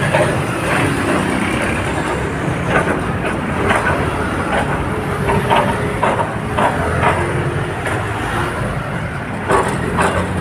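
Busy road traffic: a steady rumble of passing vehicles.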